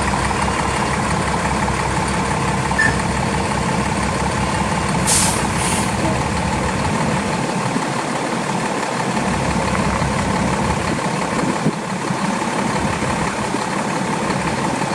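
2003 Pierce fire engine's diesel engine running steadily as the truck is driven back and forth, with two short air hisses about five seconds in, typical of its air brakes.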